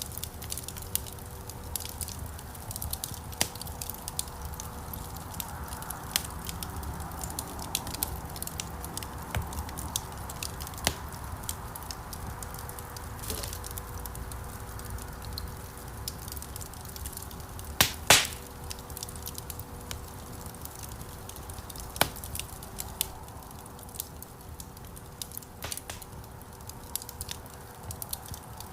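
Wood fire burning in a fireplace: a steady low rumble of flames with frequent sharp crackles and pops, the loudest a double snap about two-thirds of the way through. A faint steady hum runs underneath.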